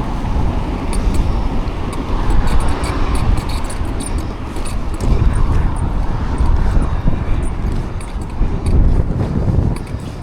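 Steady rumble of wind and road noise from riding an e-bike along the street, with traffic around.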